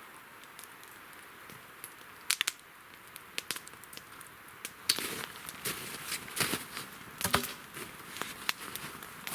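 Campfire crackling: irregular snaps and pops of burning wood, sparse at first and busier from about five seconds in.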